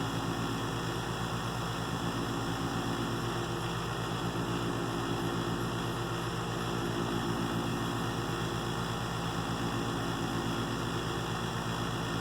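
Wood lathe motor running steadily with a low hum while a cloth is held against the spinning cedar to heat friction polish.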